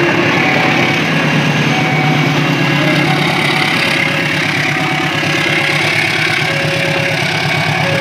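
Diesel locomotive passing close by with its engine running loudly and steadily, followed by passenger coaches rolling along the track.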